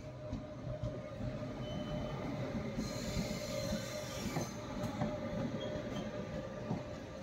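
Express passenger train running on the rails: a steady rumble of wheels on track with a faint steady whine. About three seconds in, a hiss rises in the treble for a second and a half.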